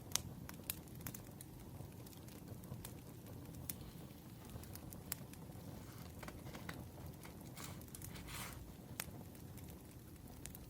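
Firewood burning, crackling with irregular sharp pops over a low steady rumble. A brief rustle about eight seconds in.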